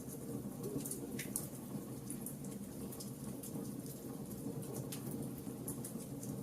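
Wood fire burning in a fireplace: a steady low rumble of the flames with frequent small crackles and pops from the burning logs, one sharper crack a little over a second in.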